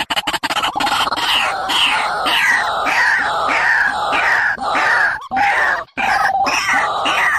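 Bird calls: a series of harsh notes, each sliding downward, repeated about twice a second with a couple of brief breaks.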